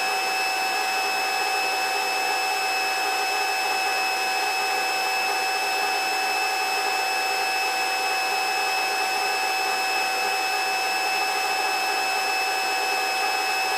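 Steady helicopter cabin noise picked up by the headset intercom microphone: an even rush with several steady high whining tones, unchanging throughout.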